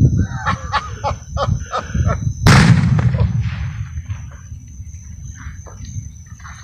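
Fireworks going off: a quick run of small pops, then one loud boom about two and a half seconds in that echoes away over the next second or so. A steady high insect trill runs underneath.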